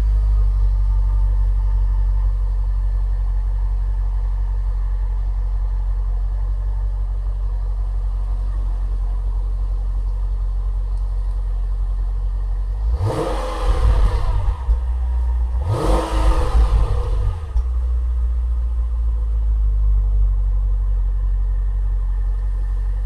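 Mercedes E55 AMG's supercharged V8 idling through gutted mufflers, with two quick throttle blips about two-thirds of the way through before it settles back to idle.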